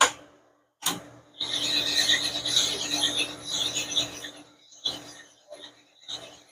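Rod honing machine running: a 2.0 Mitsubishi connecting rod's big-end bore rasping against the honing stone over the machine's steady hum, after a sharp metal click at the start. The rasping runs for about three seconds, then comes in short bursts near the end.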